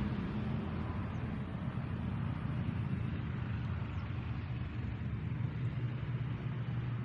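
Steady low engine rumble of a passing or idling motor vehicle, with its hum growing firmer near the end.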